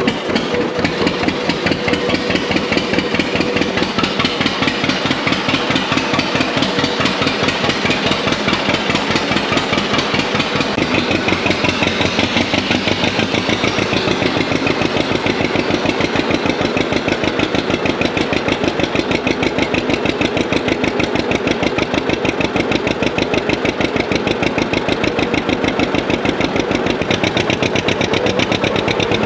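John Deere 620's two-cylinder engine running steadily, with the regular, even pulsing exhaust beat typical of a two-cylinder John Deere.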